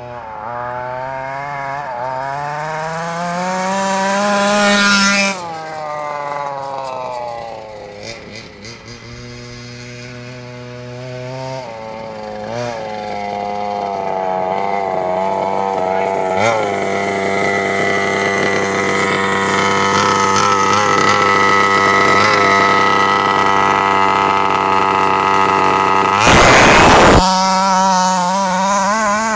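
Small two-stroke nitro engine of a Carson Comanche RC car with a custom four-pipe exhaust, running hard: its pitch climbs and then drops sharply about five seconds in as the car goes past, then climbs again and holds a high, steady whine. A brief loud rushing noise cuts in near the end.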